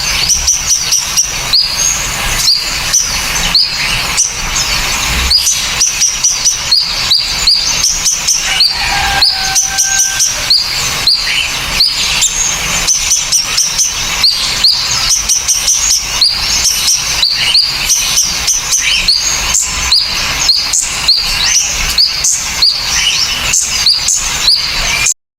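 A mixed recording of small songbirds giving sharp, rapid, high-pitched chirps and whistles, several a second, made as a master track for teaching caged songbirds new calls. It cuts off suddenly near the end.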